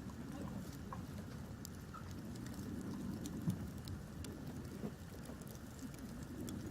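Wood campfire crackling: scattered small pops and ticks over a steady low rumble, with one sharper pop about three and a half seconds in.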